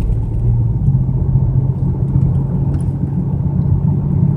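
A BMW 335i's turbocharged straight-six runs under way, with a steady low drone that steps up slightly in pitch about a second in. Cylinder 6 is misfiring, which the occupants put down to a fuel injector stuck open and flooding it with fuel.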